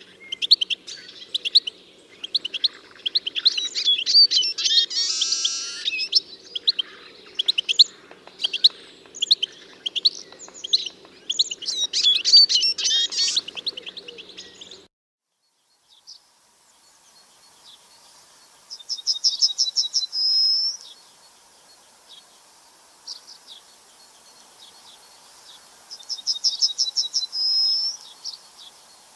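Birds chirping: a busy run of quick, high chirps over a low steady hum. After a break near the middle, a bird gives two rapid high trills about seven seconds apart, each ending in a short rising note.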